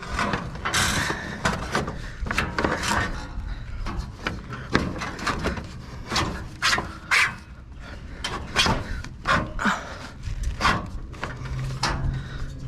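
Irregular knocks, clatter and rubbing: many short, sharp sounds in quick, uneven succession, like objects being handled. A low steady hum comes in near the end.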